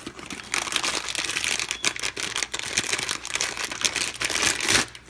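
A plastic blind-bag pouch crinkling and crackling in the hands as it is opened to get at the toy inside. The rustling is continuous, with many quick sharp clicks, and stops abruptly near the end.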